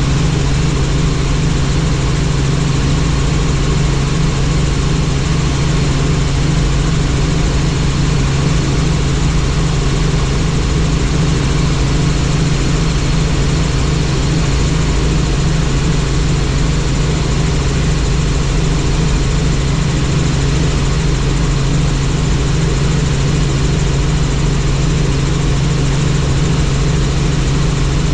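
Helicopter in flight: a steady, loud drone of turbine engine and rotor with a strong low hum and no change in pitch.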